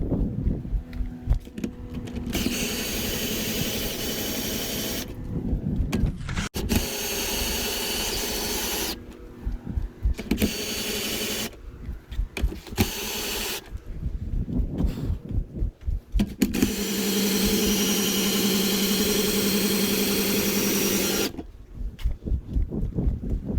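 Power drill driving the camper's jacks down, running in five or so bursts of a few seconds each with short pauses and low knocks between them; the longest run comes after about sixteen seconds.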